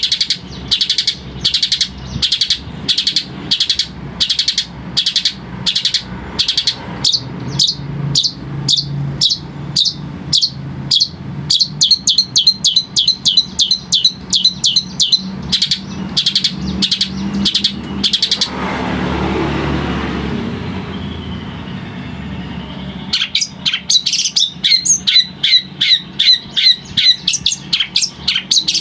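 Long-tailed shrike (cendet) singing in a long run of short repeated notes, about two a second at first and then quicker. About two-thirds of the way through the notes stop for a few seconds of rustling noise, then the quick notes start again.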